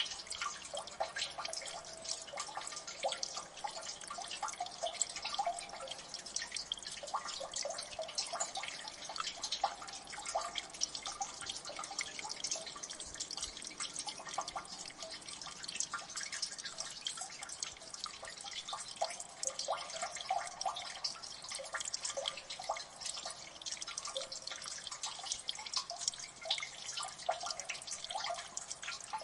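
Water dripping in a gully, many irregular drops plinking and splashing in quick succession, some with a short pitched ring.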